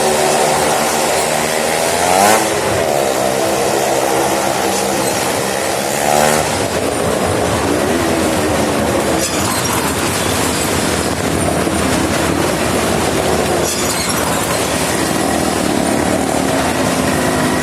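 Motorcycle and car engines running hard as they circle the wall of a Well of Death, their pitch sweeping up and down again and again as they pass close by.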